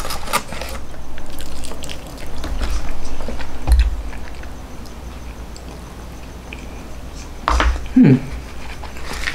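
Close-miked eating: chewing on chicken wing and rice, with a few light clicks from a fork. A short hum comes near the end.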